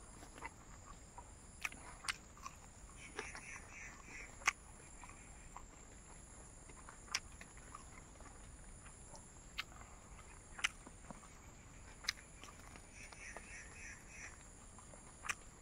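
Scattered sharp mouth clicks and smacks of someone chewing crunchy dried fried pork. Behind them, a steady high whine, and twice a short run of rapid chirping from an animal, about three seconds in and again near the end.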